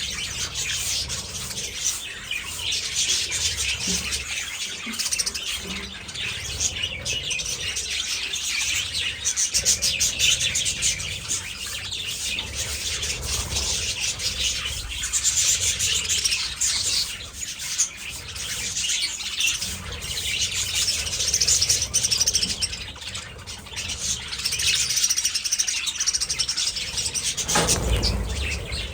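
A flock of budgerigars chattering and chirping continuously, many overlapping high warbles and chirps, with a dull low bump shortly before the end.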